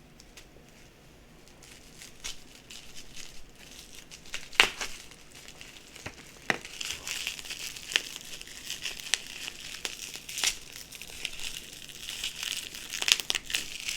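Coin packaging being torn and unwrapped by hand: crinkling and crumpling, with a few sharp snaps, the loudest about four and a half seconds in.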